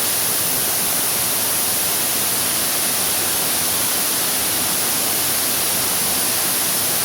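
Waterfall: a loud, steady rush of falling water with no change.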